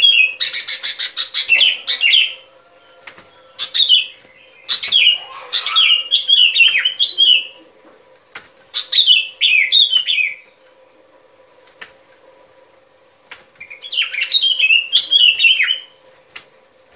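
Bulbul singing in five bouts of quick, slurred whistled notes that rise and fall, with short pauses between the bouts. A faint steady hum runs underneath.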